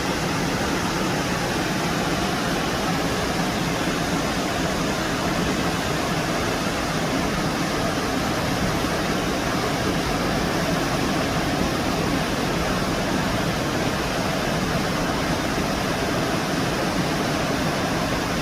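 Steady rush of Two Step Falls on the Baptism River, water pouring over the rock.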